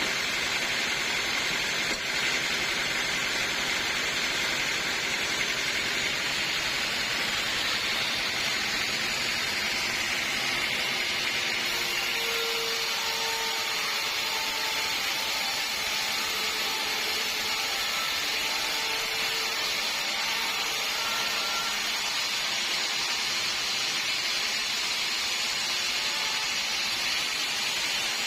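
Sawmill saw running steadily through a log, a continuous even whine and hiss of the blade in the wood.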